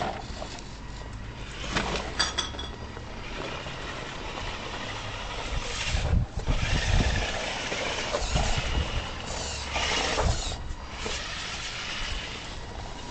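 Radio-controlled rock crawler running, its motor and drivetrain noise rising and falling unevenly, with low rumbling swells.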